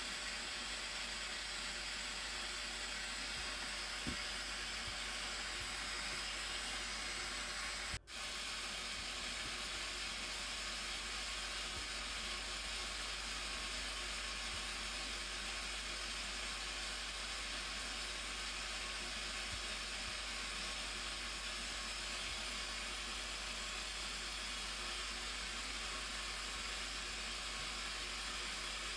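Steady rush of the Blue Nile Falls (Tis Abay) waterfall, an even noise with a deep low rumble beneath it. There is a brief dropout about eight seconds in.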